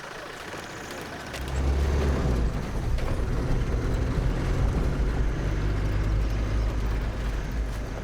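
Safari vehicle's engine pulling away and driving, a low steady rumble that grows louder about a second and a half in.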